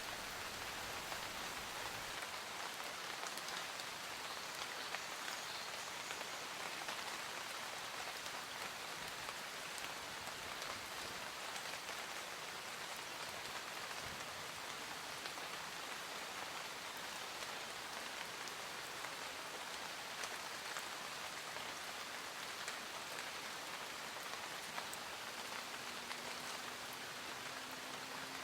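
Steady rain falling, an even hiss dotted with the ticks of single drops.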